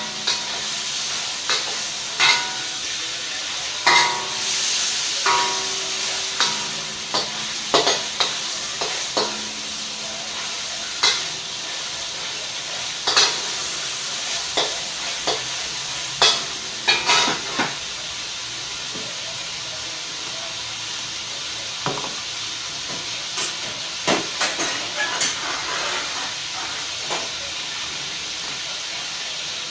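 Diced chicken sizzling in hot oil in a stainless-steel wok while a metal utensil stirs it, scraping and clanking against the wok; some clanks ring briefly. The clanks come thick in the first half, thin out past the middle, and pick up again briefly near the end.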